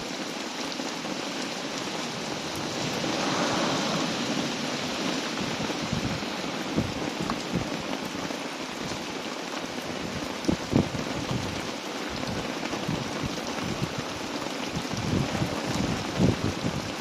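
Heavy rain falling steadily, swelling briefly a few seconds in, with scattered low thumps in the second half.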